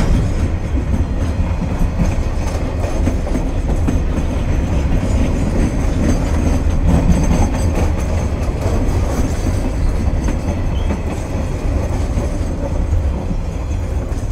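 Freight train container wagons rolling past at close range: a steady, loud rumble of steel wheels on rail, easing slightly near the end as the last wagons go by.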